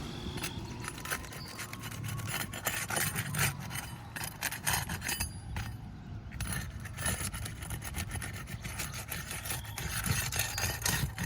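Asphalt roof shingles being scraped and rubbed as the repair begins: a gritty, uneven scraping broken by small clicks. The shingle is in poor condition and sheds its granules at even a soft touch.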